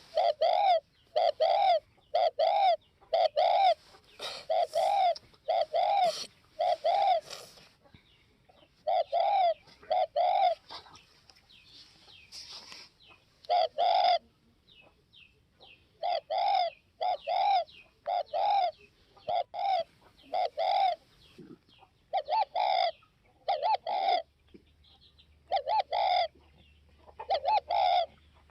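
Spotted dove (cu gáy) cooing: repeated short coo notes in runs, broken by pauses of a second or two.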